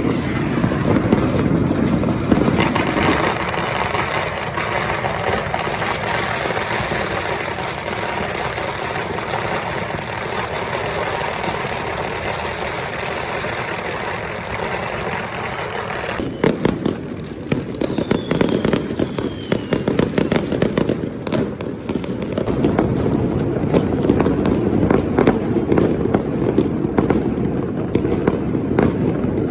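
Many firecrackers and fireworks going off: a dense, unbroken crackling din, then, about halfway through, a run of rapid separate bangs and cracks.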